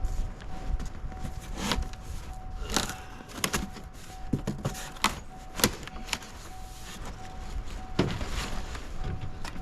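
Cardboard boxes being thrown into a dumpster: a string of irregular knocks and thumps, with a faint steady high tone underneath.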